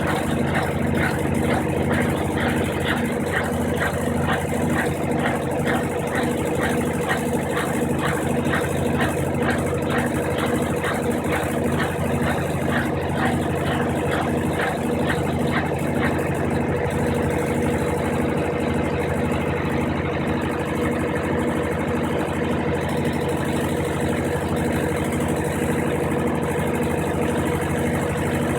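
Brastemp 15 kg top-loading washing machine running through its rinse and spin cycle: a steady motor hum with a regular pulse about twice a second. A rhythmic swishing over the top fades out about halfway through.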